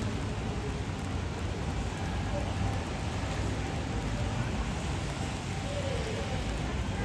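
Steady rain falling on pavement, an even hiss with a low rumble underneath.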